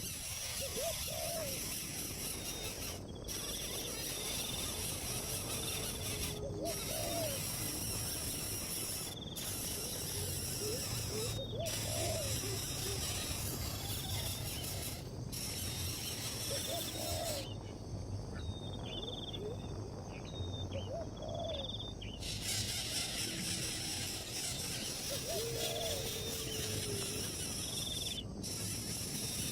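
Outdoor wildlife sounds: an animal, likely a bird, gives short low rise-and-fall calls every two or three seconds, with higher short chirps between them. A steady high hiss runs underneath and briefly cuts out a few times.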